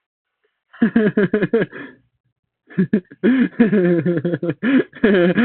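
A voice heard over a voice call through a voice-changer mic, making loud, distorted vocal noises that slide up and down in pitch. It comes in two stretches, with a short pause about two seconds in.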